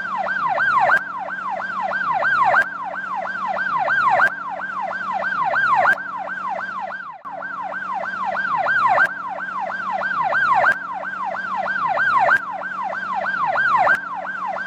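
Electronic police-car siren sound in a fast yelp, a falling wail repeating about three times a second over a steady low hum. It loops with a faint click every second and a half or so, with a short break about seven seconds in.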